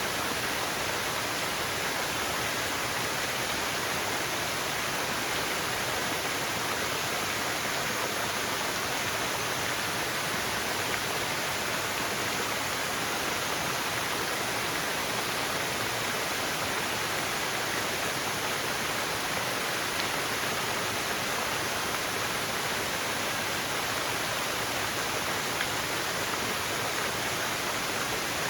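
Forest waterfall: water falling and splashing in a steady, even rush, with no changes or separate sounds.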